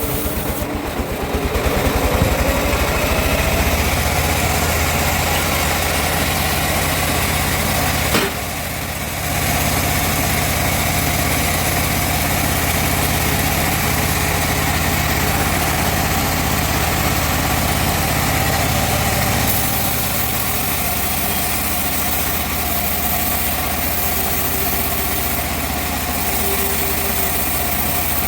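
Engine driving a sawmill running steadily, speeding up over the first couple of seconds, with a brief dip about eight seconds in.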